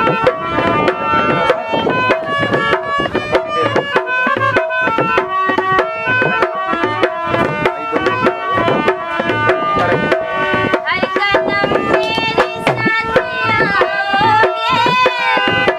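Indian film-song music with tabla playing a steady rhythm under sustained melodic notes. About two-thirds of the way in, a higher melody line joins, gliding up and down.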